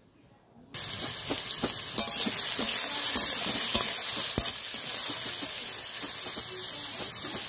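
Kochur loti (taro stolons) frying with a steady sizzle in a black iron kadai, stirred with a spatula that scrapes and clicks against the pan. The sizzle starts abruptly just under a second in.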